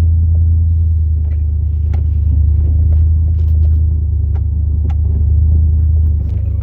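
The 2002 Chevrolet Silverado's 8.1-litre big-block V8 running as a steady low drone while the truck pushes its plow, with scattered light clicks and knocks over it. The drone eases slightly near the end.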